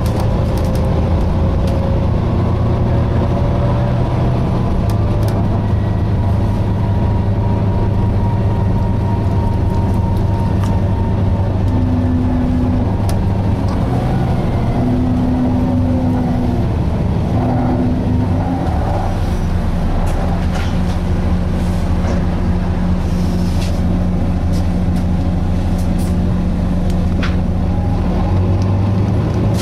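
Volvo B9TL bus's six-cylinder diesel engine running, heard from inside the bus, with a steady drone and scattered rattles and clicks. Midway there are three short steady hums a few seconds apart.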